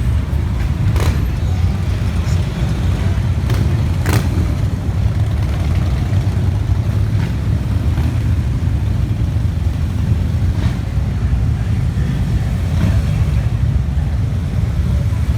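Motorcycle engines of a passing parade running in a steady low drone, with a few short sharp clicks about one, three and a half and four seconds in.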